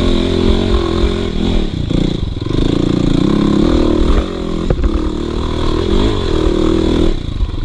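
Dirt bike engine revving up and down under changing throttle on a climb, with a sharp knock a little past halfway.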